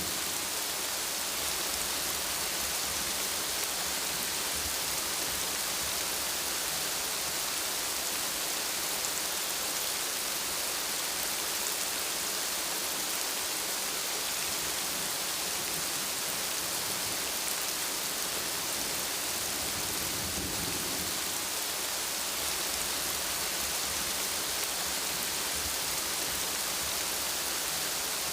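Steady rain falling, a dense, even hiss with no let-up. A brief low rumble comes about two-thirds of the way through.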